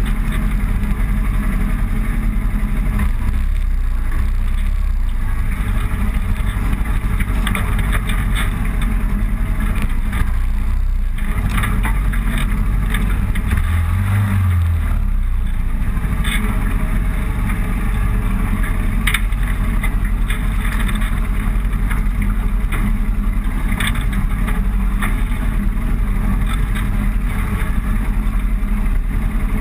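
Motorcycle running steadily at road speed, with the engine's low drone under constant wind rush on the microphone; the drone swells briefly about halfway through.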